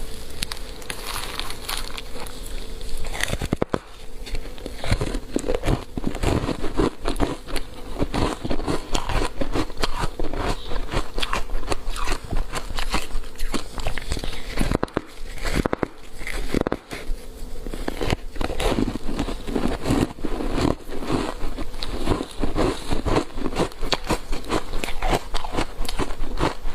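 Close-up biting and chewing of a frozen block of compressed matcha green-tea powder. Dense, irregular crunches and crackles run on without a break.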